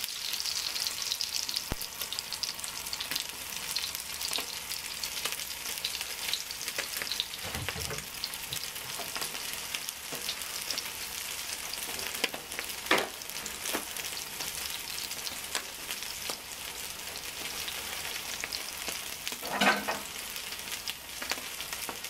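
Block of halloumi cheese sizzling and crackling in hot oil in a frying pan, steady throughout, with a few brief knocks, the last near the end.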